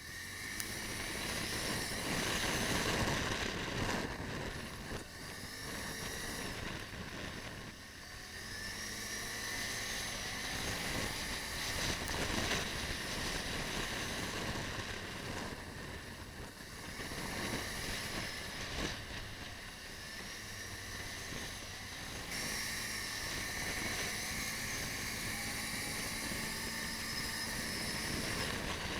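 Wind rushing over an action camera's microphone while riding a Can-Am, with the vehicle running underneath; the sound swells and eases every few seconds as the pitch rises and falls.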